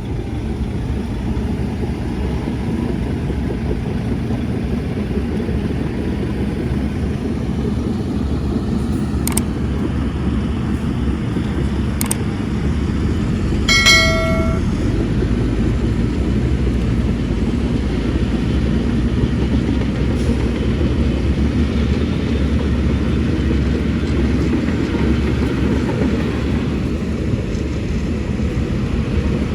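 Heavy earthmoving machinery running with a steady low engine rumble. Two sharp clicks are heard about 9 and 12 seconds in, and a short pitched tone about 14 seconds in.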